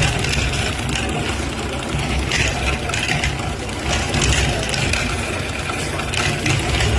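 Jack industrial sewing machine running steadily: a continuous mechanical hum and clatter.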